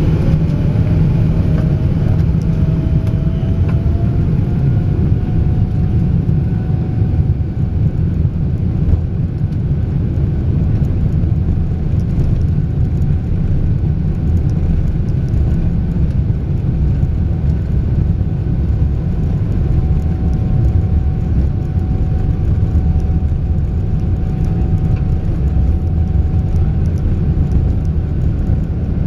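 Airliner engines running during a takeoff, a steady low rumble with a faint whine that rises in pitch over the first several seconds and then holds steady.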